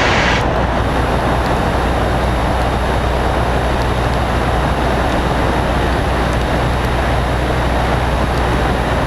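Cessna 152's four-cylinder Lycoming engine and propeller droning steadily, heard from inside the cockpit.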